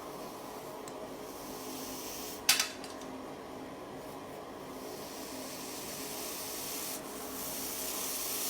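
Steady rubbing or scraping against a surface, with one sharp knock about two and a half seconds in and a few fainter ticks.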